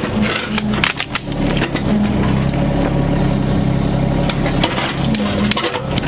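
Yanmar Vio 25 mini excavator's diesel engine running under hydraulic load as it digs, its pitch rising briefly several times, with sharp knocks and scrapes of the bucket against rock and dirt.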